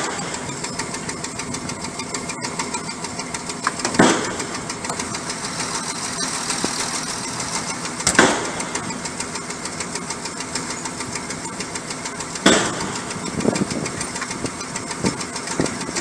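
Caterpillar C9 diesel engine running at idle with a fast, even pulse. Four short, louder bursts stand out over the running: one about four seconds in, one about eight seconds in, and two close together near the end.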